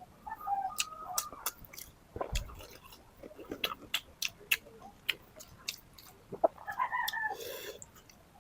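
Close-up eating sounds of chicken tinola: wet chewing with repeated lip smacks and clicks. A short slurp comes near the end. Brief high clucking calls sound in the background about a second in and again near seven seconds.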